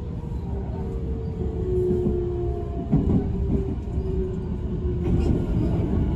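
Nankai 50000 series electric train running, heard from inside the car: a steady rumble of wheels on rails with a steady whine from the traction motors, and a brief knock about three seconds in.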